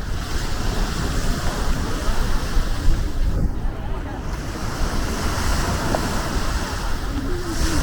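Sea waves washing onto a sandy beach, with wind buffeting the microphone in a steady low rumble.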